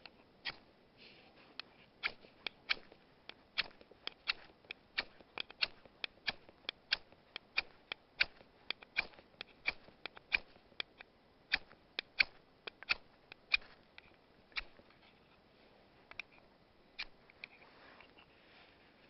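Ferro rod (flint) being struck again and again with a scraper to throw sparks onto tinder, sharp scratchy clicks about two a second for some fourteen seconds, then a few last strikes. The tinder has not yet caught.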